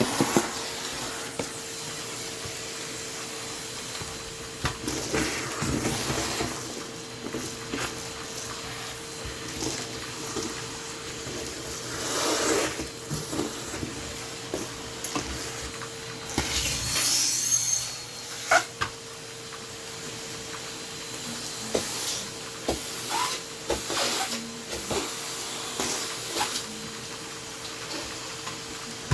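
A steady motor hum with a light hiss, dropping out briefly about two-thirds of the way through, under intermittent rustling, clattering and knocks from household items being handled and sorted.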